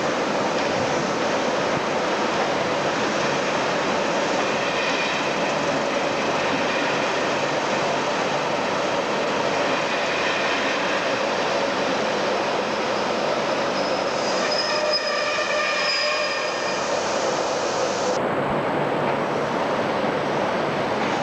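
A train running on the track through a station, with a steady running noise and high-pitched wheel squeal that comes and goes, strongest about two-thirds of the way through.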